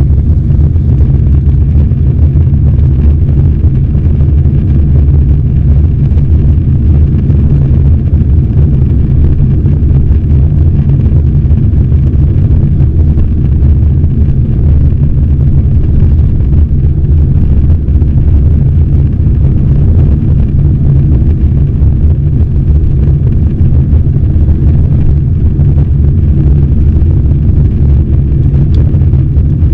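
Cabin noise of an Airbus A320-216: its CFM56-5B engines and rushing air, heard as a loud, steady low rumble.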